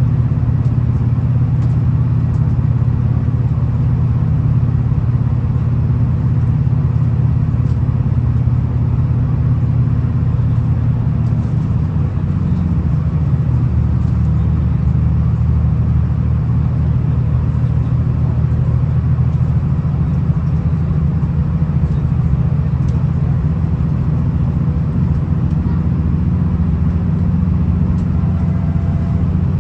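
V/Line VLocity diesel multiple unit heard from inside the carriage: a steady low rumble from its underfloor diesel engines, with the engine note shifting about twelve seconds in.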